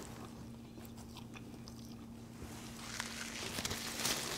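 Faint eating sounds: chewing a mouthful of jerk chicken, with small scattered clicks, and a breathy hiss building near the end.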